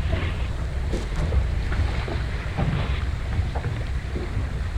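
Strong wind buffeting the microphone aboard a small open boat, a steady low rumble, with a few faint knocks.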